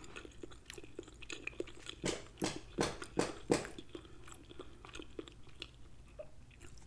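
A person chewing a mouthful of tender chicken thigh with the mouth closed: soft, wet, irregular chewing clicks, a little louder between about two and four seconds in.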